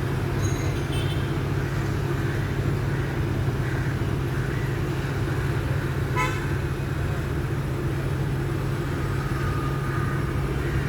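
Large diesel demolition machine running steadily with a deep, even engine drone. A brief high tone, like a short toot, comes about six seconds in.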